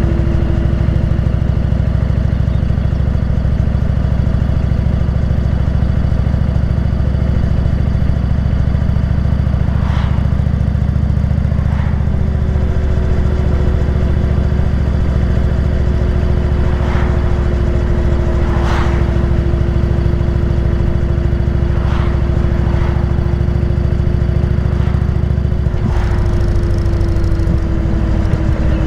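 Motorcycle engine running steadily while riding, with a few short clicks over it. The engine note shifts near the end.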